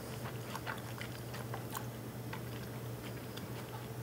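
A person chewing a mouthful of cooked beans: small, irregular soft clicks and crunches. The long-stored dried beans are still a little firm and not yet tender.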